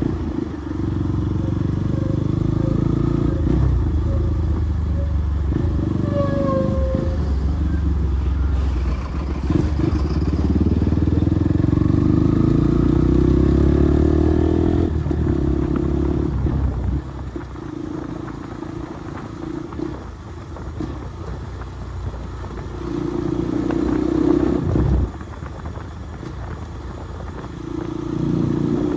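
Bajaj Pulsar NS200's single-cylinder engine running through an aftermarket Akrapovic exhaust. It is loud for roughly the first half, then drops lower, rising briefly twice before the end.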